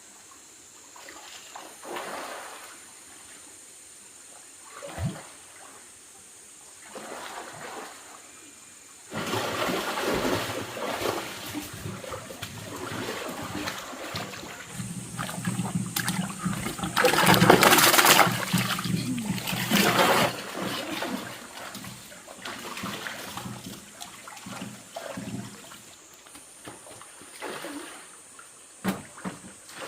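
Water splashing and trickling in short bursts, with a longer stretch of heavy, continuous splashing through the middle. There is a single knock about five seconds in.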